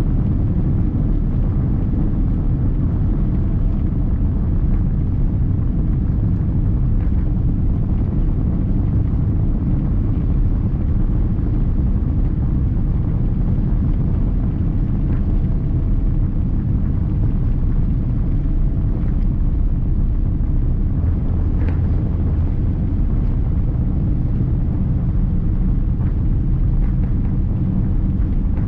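Cabin noise inside a Boeing 787-9 airliner: a steady low rumble of engines and airflow, with a few faint ticks.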